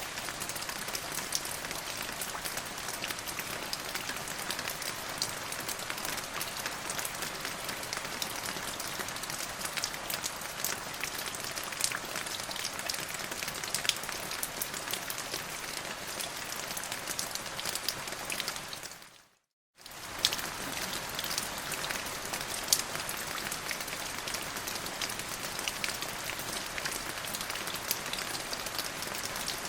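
Steady rain falling on a surface: an even hiss of dense patter with sharper single drop strikes here and there. About two-thirds of the way through it fades out to silence for a moment and then comes back.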